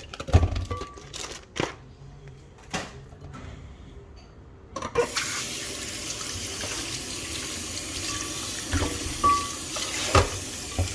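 Several knocks and clatters, then about five seconds in a kitchen tap is turned on and water runs steadily into the sink, splashing over chicken leg pieces being rinsed, with a few more knocks along the way.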